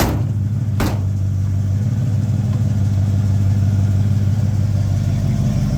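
The non-stock engine of a customized 1953 GMC panel truck idling steadily, with a mellow exhaust note. A sharp click sounds at the start and another just under a second in.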